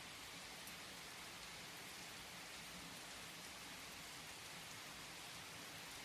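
Steady rain falling: an even, quiet hiss with no change in strength.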